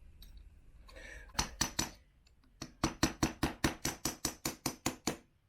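Metal hammer blows on a socket, driving a bearing into a Yamaha YZ125 crankcase. Three strikes come about a second in, then a fast even run of taps at about six a second.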